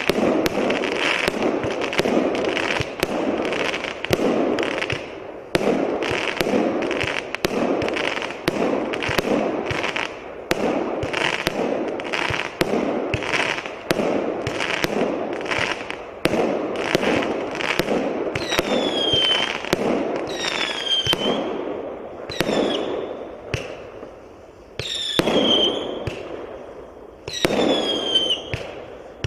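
PyromanPro PD7066 'Flying Ship' firework cake, a 100-shot battery of 0.8-inch tubes, firing shot after shot at about two a second, each launch with a popping burst. From a little past halfway, several shots carry a falling whistle.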